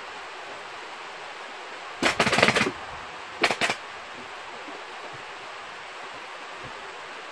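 Pneumatic upholstery staple gun firing a fast run of staples, then a few more about a second later, over a steady hiss.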